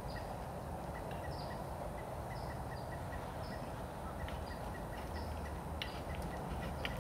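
Birds calling: a short, high, falling chirp repeated about once a second over a fainter, quicker ticking call, with a steady outdoor background hiss.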